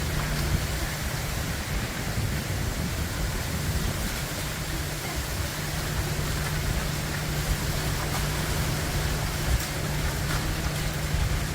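Gusty tropical-storm wind rushing through the trees and buffeting the microphone, with a heavy low rumble and a steady low hum underneath.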